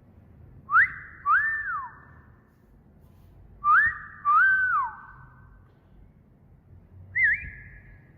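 A wolf whistle repeated twice: each is a quick upward-sliding note followed by a longer note that rises, holds and slides down, with a short echo trailing after. A brief wavering whistle follows near the end.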